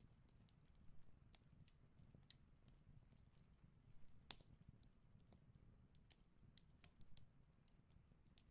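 Faint, irregular snips of scissors cutting through paper, with one slightly louder snip about four seconds in.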